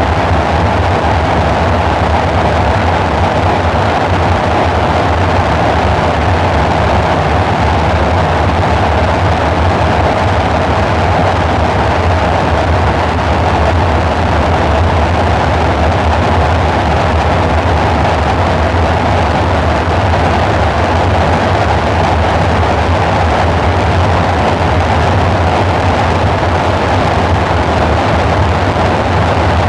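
Dark ambient synthesizer drone: a steady, unchanging low rumble under a noisy hiss-like wash in the middle range.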